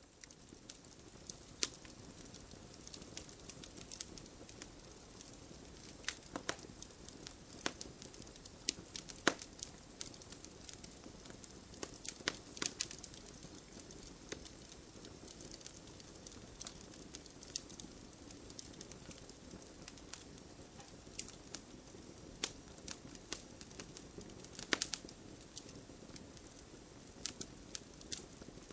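Wood fire crackling: a steady soft rush of burning with frequent sharp pops and snaps at irregular intervals.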